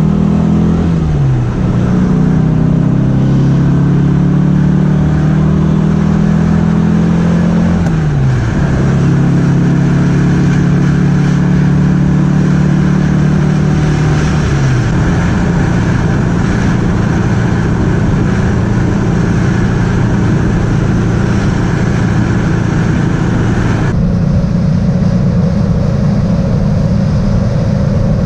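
Porsche 912's air-cooled flat-four engine driving on the road, its note dropping sharply three times as it shifts up through the gears, then running steadily at cruising speed. The higher road and wind noise falls away suddenly near the end.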